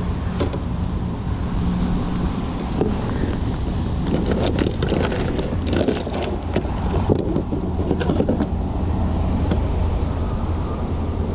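A steady low mechanical hum, with a cluster of short clicks and knocks in the middle.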